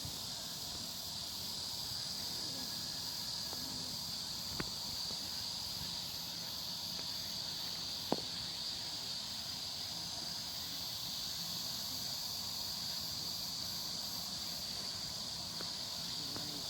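Steady high-pitched chorus of insects, crickets or similar, with two sharp clicks about four and a half and eight seconds in.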